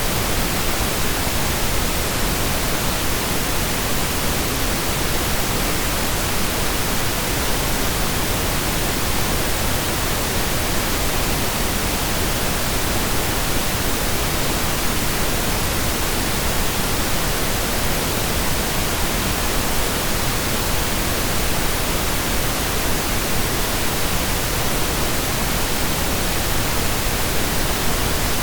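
Steady synthesized pink noise: an even, unchanging hiss spread across the whole range, deeper-toned than white noise.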